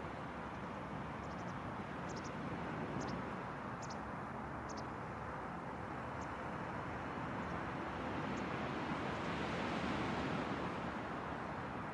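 Ocean surf washing steadily onto a sandy beach, swelling as a wave breaks and rushes in near the end, with a few faint, short, high bird chirps in the first few seconds.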